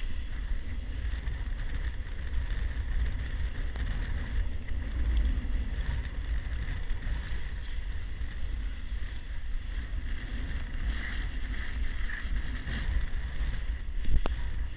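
Wind buffeting the microphone as a low rumble over a steady rush of surf; a single sharp click near the end.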